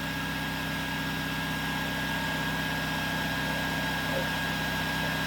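A motor running steadily: a constant drone with a fine rapid pulse and a thin steady high hum.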